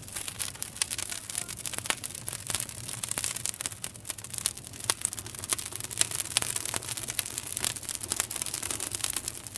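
Wood campfire crackling, with frequent sharp irregular pops and snaps over a steady hiss.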